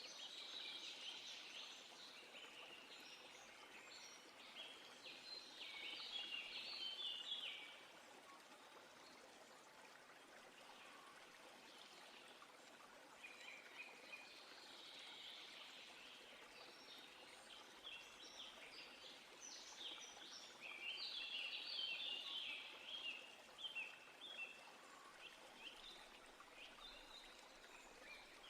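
Faint outdoor nature ambience: a soft steady hiss with two long bouts of quick, high-pitched chirping notes, one in the first several seconds and a longer one from about the middle to near the end.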